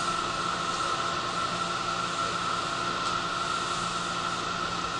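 Steady running noise inside a JR 211 series electric train carriage under way: an even rumble and hiss with a constant high whine.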